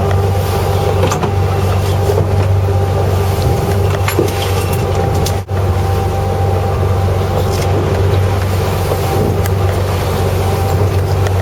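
A fishing boat's engine running steadily with a low hum, with wind and water noise around it. The sound drops out very briefly about five and a half seconds in.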